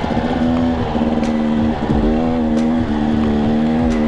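Husqvarna TE250i two-stroke dirt bike engine on the trail, holding a steady pitch and briefly dropping off and picking back up about once a second as the throttle is rolled off and on.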